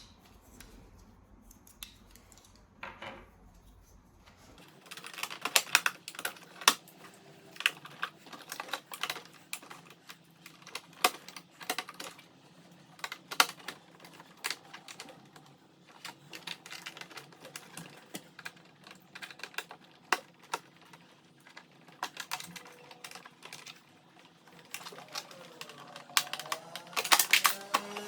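Irregular small clicks and taps of tools and parts being handled while a Singer Curvy sewing machine is worked on, starting about four and a half seconds in and growing busier near the end.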